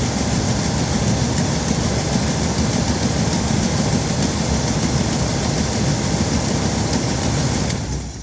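Old pickup truck's engine idling steadily, run briefly after an oil change to circulate the fresh oil, then switched off near the end and dying away.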